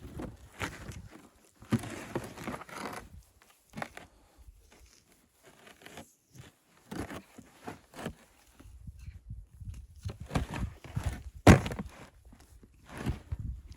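Irregular crunching and rustling with knocks and gaps between them, and one loud thump late on.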